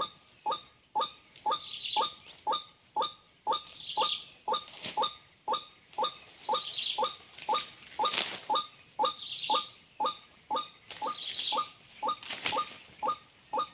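White-breasted waterhen (ruak-ruak) call, a short downward-sweeping note repeated evenly about twice a second. Higher bird chirps come in now and then over it.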